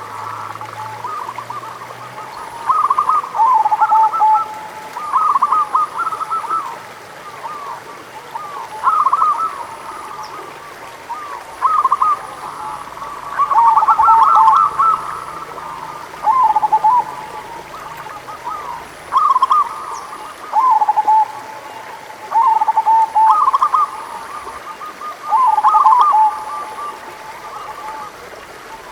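Zebra doves (perkutut) cooing: short, quick-pulsed phrases repeated every couple of seconds, sometimes overlapping at two pitches.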